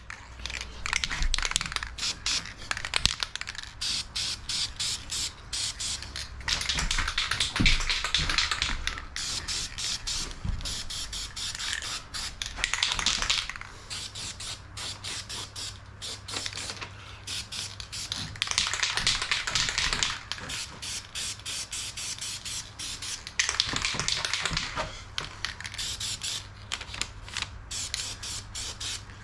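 Aerosol spray paint can spraying in repeated hissing bursts of a second or two, with rapid sharp clicks between and through the bursts.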